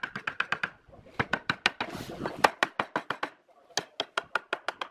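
Rapid runs of sharp knocks on wood, about eight a second, in three bursts with short pauses between them.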